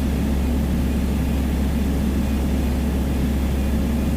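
Single-engine Piper's piston engine and propeller droning steadily in cruise, heard from inside the cockpit.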